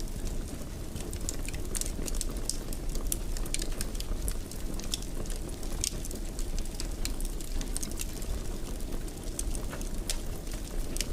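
Wood fire in a fireplace crackling steadily, many small sharp pops scattered over a constant low rumble and hiss of the flames.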